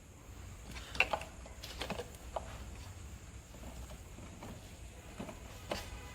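Faint scattered clicks and light knocks of hands fitting the rubber dust cover and LED bulb into the back of a motorcycle headlight.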